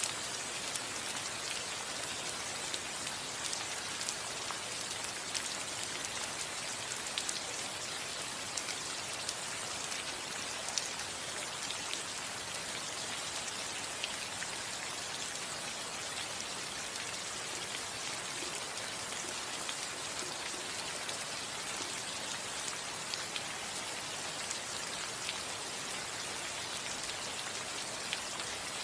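Rain falling steadily on a house roof: an even hiss with many separate drops ticking sharply through it.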